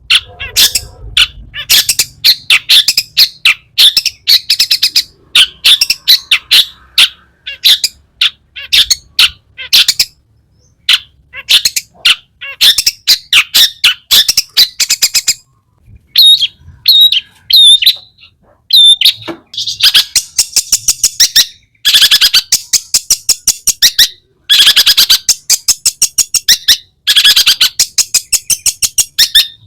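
Long-tailed shrike (cendet) in full song: fast, harsh, chattering runs of sharp notes packed with mimicked calls, broken by a few short pauses. After the midpoint come a few separate hooked whistles, then long rapid trills.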